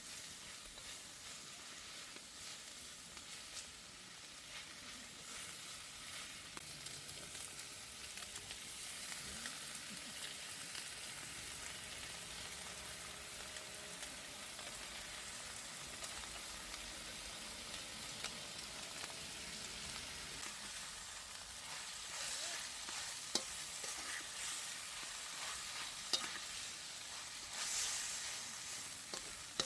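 Food sizzling in a Chinese wok and being stirred as it stir-fries, a steady hiss with a few sharp clicks in the last third and a brief louder scrape near the end.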